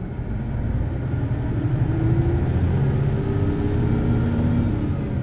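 Hino Blue Ribbon City Hybrid bus's diesel-hybrid drivetrain pulling away under load, the engine running at high revs, its pitch rising and then holding, with a faint high whine that rises and falls. It gets louder over the first two seconds and then stays steady.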